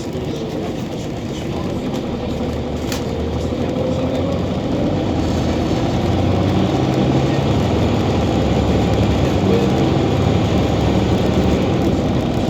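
Scania OmniCity city bus engine running, growing louder and rising in pitch from about four seconds in as the bus pulls away and picks up speed, then holding steady.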